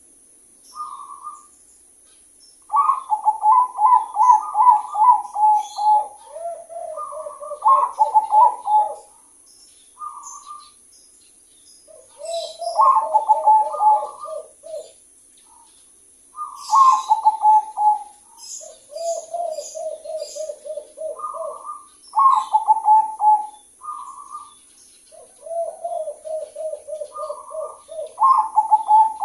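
A dove cooing in repeated phrases. Each phrase opens with a short higher note, then a quick run of pulsed coos that steps down to a lower pitch, with pauses of a second or two between phrases.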